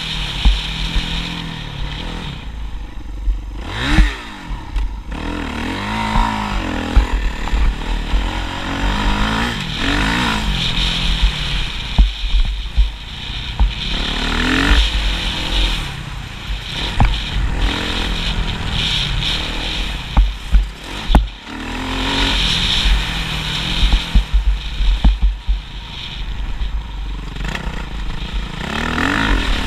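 Motocross bike engine revving hard and easing off over and over, its pitch climbing and falling every few seconds as it accelerates and backs off.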